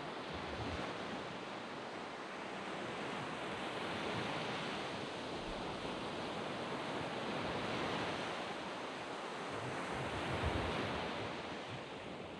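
Surf on a sandy beach: waves breaking and washing up the shore in a steady hiss that swells and eases, with the loudest surges about four, eight and ten seconds in.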